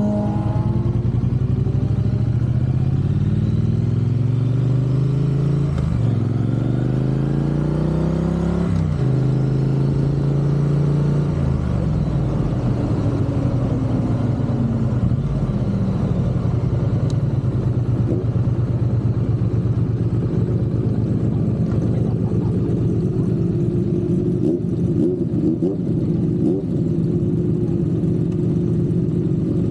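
Triumph parallel-twin motorcycle engine pulling up through the gears, its pitch climbing and dropping sharply at each of two upshifts. It then eases off as the bike slows, and runs low and steady for the second half.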